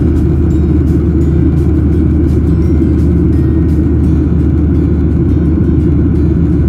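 Steady, loud low rumble of an airliner's jet engines and airflow, heard from inside the passenger cabin.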